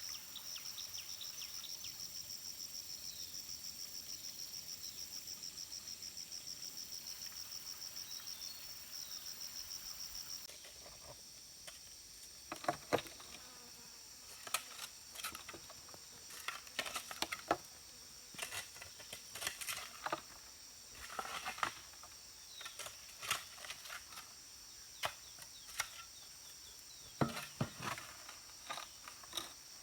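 Insect trilling in a fast, even pulse at a high pitch. It stops abruptly about a third of the way in. Irregular knocks and scrapes follow, several of them louder than the trill.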